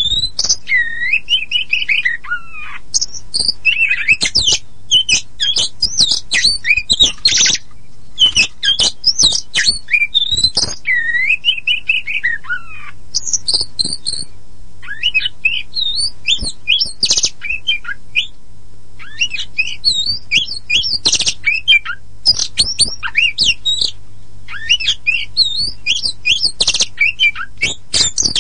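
Oriental magpie-robin (kacer poci) singing without pause: a varied run of clear whistles sliding up and down, broken by rapid harsh chattering and clicking notes. A faint steady low hum runs underneath.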